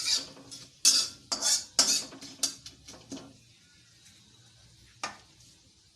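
Metal spoon stirring and scraping in a metal kadai, several sharp strokes over the first three seconds, then a single clink about five seconds in.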